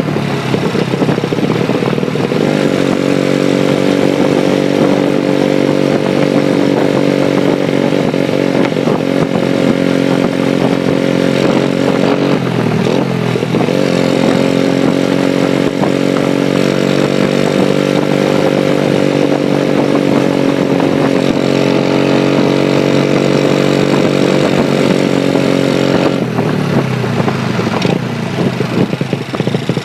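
Honda Chaly minibike's Wave 100 single-cylinder four-stroke engine pulling steadily while riding. Its note climbs and holds, drops briefly and climbs back about halfway through, and falls again near the end.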